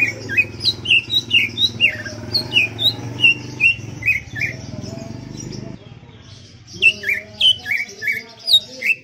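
Cucak ijo (leafbird) singing in full song: a fast run of short, downward-slurred whistled notes, about two a second, breaking off briefly just past the middle and then starting again.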